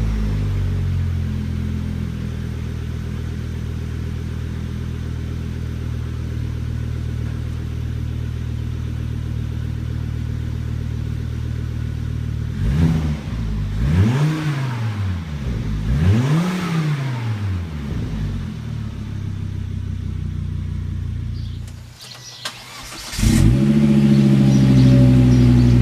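Volvo V70 R's five-cylinder engine idling steadily through its exhaust, then revved twice, each rev climbing and falling back over about two seconds. Near the end the sound drops off briefly and a louder idle comes in.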